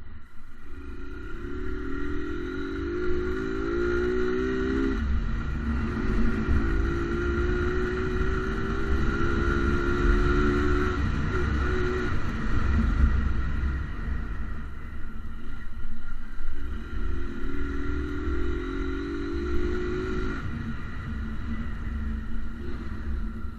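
Motorcycle engine accelerating, its pitch rising for a few seconds and dropping at a gear change about five seconds in, then running steadily. Near the end it climbs again for a few seconds, over a constant low rumble.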